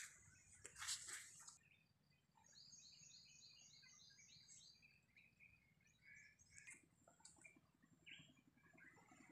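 Faint birdsong: a harsh call about a second in, then a quick, even run of high chirps, about four or five a second, followed by scattered short chirps.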